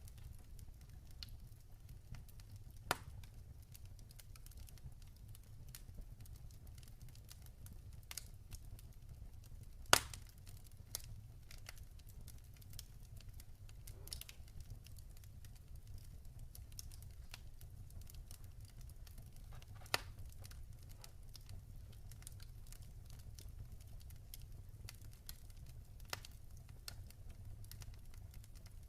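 Fireplace fire burning with a low steady rumble, broken by sparse sharp crackles and pops every few seconds. The loudest pop comes about ten seconds in.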